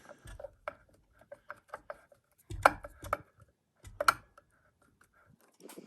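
Scattered light clicks and knocks of a screwdriver and metal ceiling-fan mounting hardware being handled and tightened, with two louder knocks about two and a half and four seconds in.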